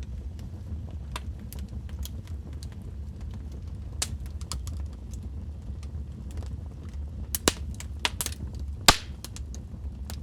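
Wood fire in a fireplace crackling: burning logs giving off scattered sharp pops and snaps over a low steady rumble of the flames, with a cluster of louder pops near the end, the loudest about nine seconds in.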